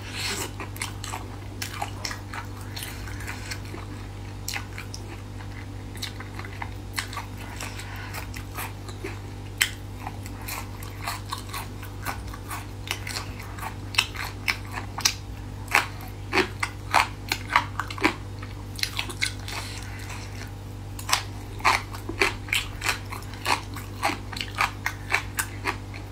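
Close-miked chewing and crunching of crisp braised beef skin, with sharp crunchy clicks that become louder and more frequent about halfway through. A steady low hum runs underneath.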